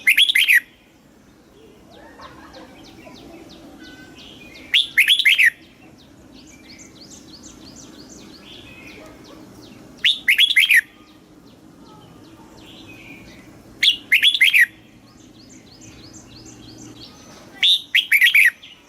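Red-whiskered bulbul singing: five short, loud song phrases, each under a second long, coming about every four to five seconds, with fainter quick chirping between them.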